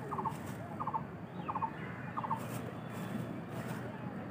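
A bird calling in short bursts of three or four quick notes, repeated about every two-thirds of a second and stopping a little past two seconds in, over a steady background noise.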